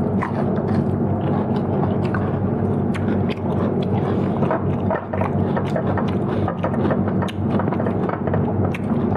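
Close-up eating sounds: chewing, with frequent small clicks of food and utensils, over a steady low background hum.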